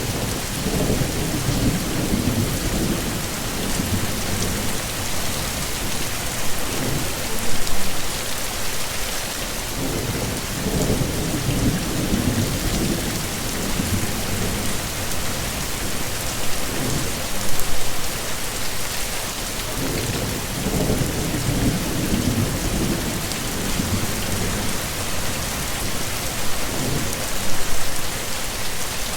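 Heavy rain falling steadily, with low rumbles of thunder swelling and fading about every ten seconds.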